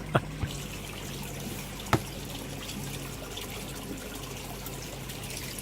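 Steady trickle of water into a garden pond, with a single sharp tap about two seconds in.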